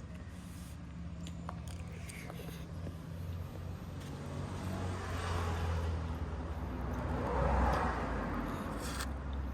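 A motor vehicle going by: a low steady rumble with a rushing noise that builds to its loudest about three-quarters of the way through, then eases off. A few faint clicks sound over it.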